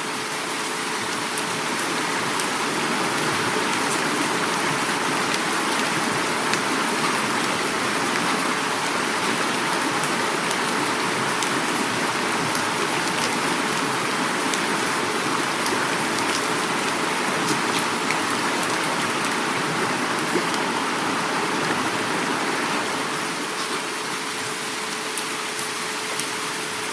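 Heavy rain falling with flowing river water: a constant rushing hiss dotted with sharp drop ticks, over a faint steady hum.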